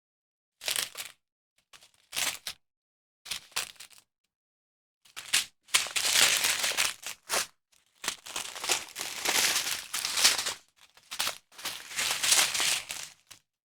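Packaging of a diamond painting kit crinkling as it is handled: a few short bursts, then longer runs of crinkling from about five seconds in.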